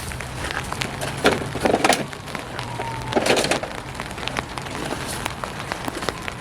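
Rain falling on a tarp overhead, a steady hiss, with a few sharp knocks of work on the car about a second in, around two seconds in and just after three seconds.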